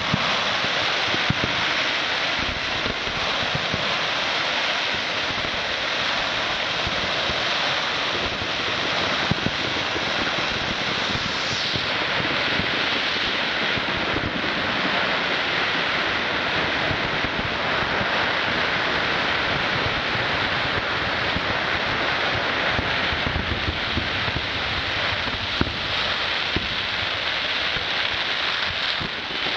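Fireworks giving off a steady, dense hissing crackle with no distinct bangs.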